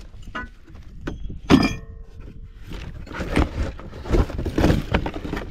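Metal parts of a new T-post puller being unpacked: one sharp clank with a brief metallic ring about a second and a half in, then irregular clattering and rustling of the parts and packaging.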